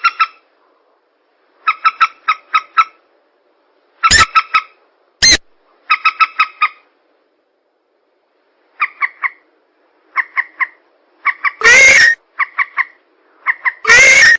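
Bird-lure playback of swamp-bird calls, mandar (rail) and pelan: quick groups of four or five short pitched notes repeat every second or two. A few loud, harsh single calls break in, the loudest twice near the end.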